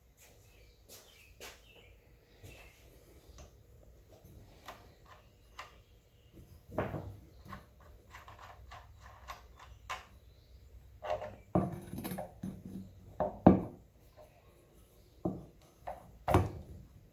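Scattered knocks, clicks and clunks from handling hard objects in a small room, at irregular intervals, with a louder cluster past the middle and one strong knock near the end.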